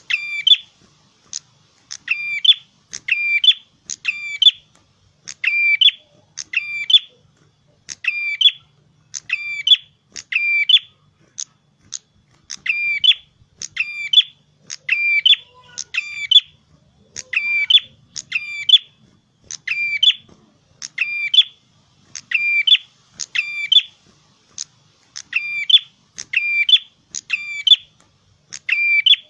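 A prenjak kepala merah songbird singing persistently, repeating the same short, quick, high-pitched call phrase about once a second with only brief pauses.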